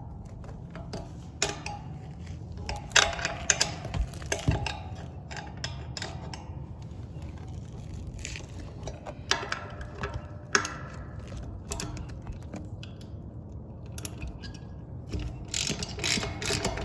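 Ratchet-like clicking and metallic clinking of hand tools and hardware, in several separate bursts of quick clicks, as a satellite dish is unbolted from its mount.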